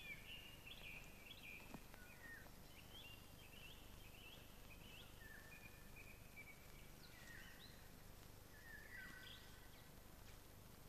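Faint birdsong: short chirps and trills coming again and again, over a low background hiss.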